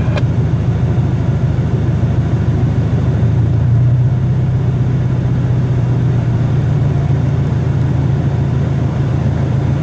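Steady low engine rumble that swells slightly about four seconds in.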